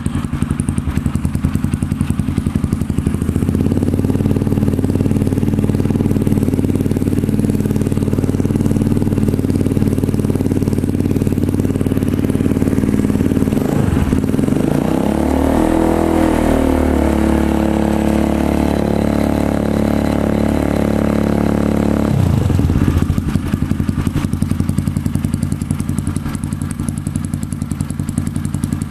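Honda CRF motorcycle engine running through a Triton CR-5 stainless full-system aftermarket exhaust. It starts at idle and is held at raised revs from a few seconds in. About halfway through the revs dip and then climb to a higher steady hold for several seconds before dropping back to idle.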